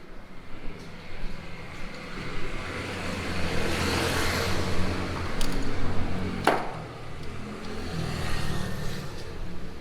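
A car passes close by; its engine and tyre noise swell and fade over a few seconds. There is a sharp click about six and a half seconds in, and a lighter vehicle hum near the end.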